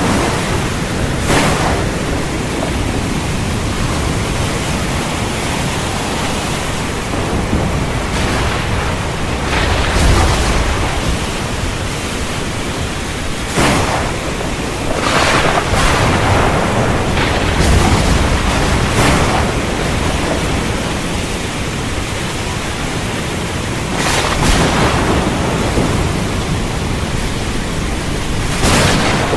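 Heavy rain falling steadily, broken several times by sudden sharp cracks of thunder and deep thunder rumbles.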